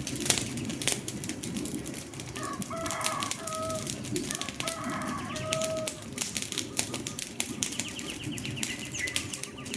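Wood fire crackling, with frequent sharp pops and snaps over a steady low hiss of burning. A bird calls a run of short pitched notes from about two and a half to six seconds in, and again near the end.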